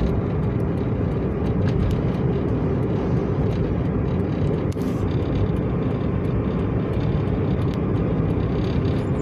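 Steady low roar of wind and traffic in a sandstorm, even throughout, with no single event standing out.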